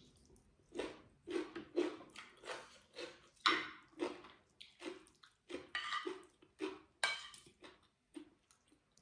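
Close, crisp chewing of a raw vegetable stick, in short bursts about twice a second, mixed with a fork and spoon scraping and clinking on a ceramic plate.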